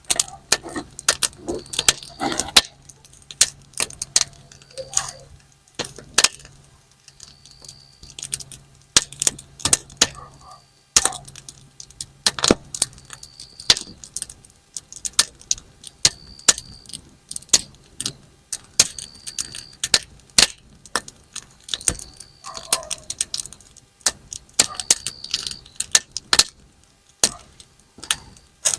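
Campfire wood burning with dense, irregular sharp crackles and pops, like snap-pop firecrackers being thrown. Brief high-pitched whistles come every few seconds.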